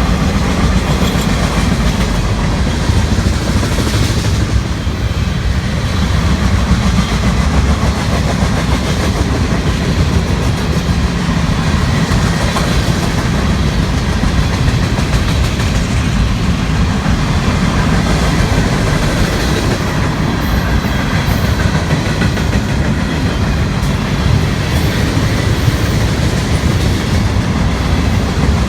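Freight train rolling past on the track: a loud, steady rumble of wheels on rail.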